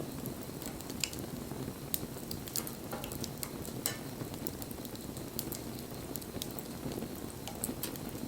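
Wood bonfire burning: a steady low rush of flame with irregular sharp crackles and pops from the burning wood.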